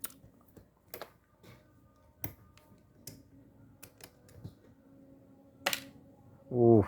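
Scattered sharp clicks and taps of small parts and tools being picked up and set down on a work surface during a fishing reel strip-down, about one every second. Near the end comes a short, louder low pitched sound.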